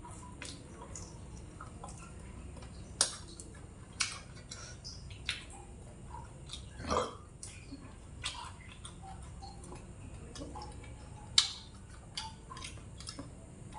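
A person biting and chewing fried pork ribs held in the fingers: irregular sharp mouth clicks and smacks, with one brief throaty sound about halfway, over a steady low background hum.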